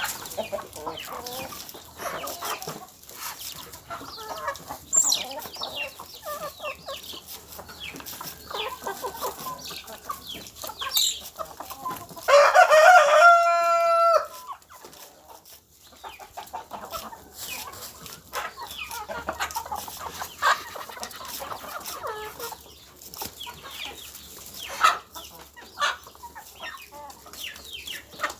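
Chickens clucking, with a rooster crowing once about halfway through, the loudest sound.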